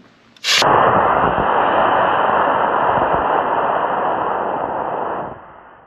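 B-class model rocket motor ignited: a sharp pop about half a second in, then a loud steady rushing hiss for about five seconds that dies away near the end.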